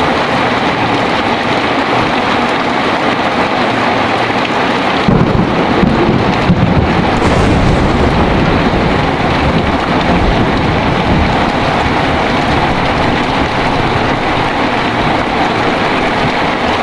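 Heavy rain falling steadily in a thunderstorm; about five seconds in a thunderclap breaks out with a few sharp cracks and rolls on as a deep rumble for several seconds before easing back under the rain.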